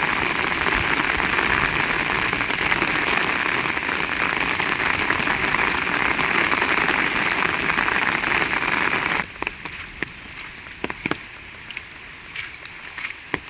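Heavy rain falling steadily, a dense hiss of drops that cuts off abruptly about nine seconds in, leaving only scattered single drips.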